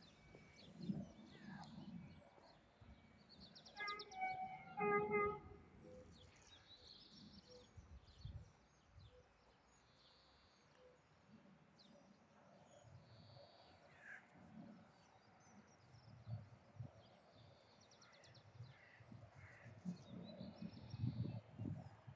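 Quiet outdoor ambience with small birds chirping, two short harsh pitched calls about four and five seconds in, and an uneven low rumble that grows near the end.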